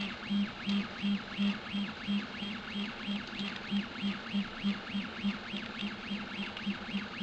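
Prusa i3-type 3D printer running, its stepper motors singing in a quick back-and-forth rhythm of about three moves a second, each move a whine that rises in pitch, holds, then falls as the head speeds up and slows down.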